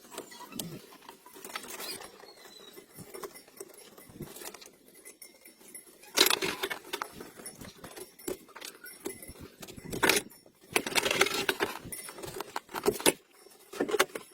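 Metallic clinking and jangling, like tools or loose metal parts being handled, with louder scraping bursts about six seconds in and about ten seconds in.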